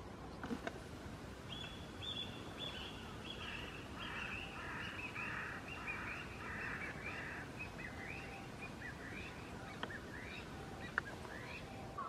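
A wild bird calling: a long run of quick repeated notes that starts about one and a half seconds in, slowly falls in pitch, and spreads out into separate chirps near the end, over a steady outdoor hiss.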